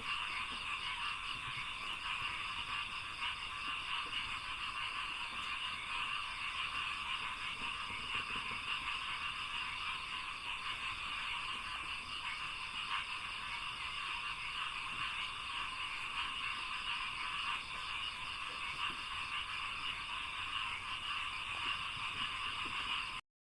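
Dense chorus of many frogs calling at once, a steady unbroken croaking mass with a thin high band above it, cutting off suddenly near the end.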